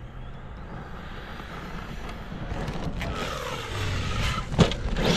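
Arrma Kraton EXB V2 RC monster truck running, its brushless motor whining up and down in pitch with the throttle over the rush of its tyres on the ground, growing louder from about halfway. There is a sharp knock near the end.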